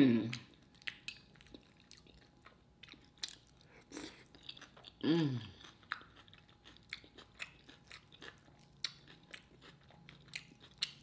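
Close-miked chewing, with many small crunches and wet mouth clicks, and a brief hummed "mm" about five seconds in.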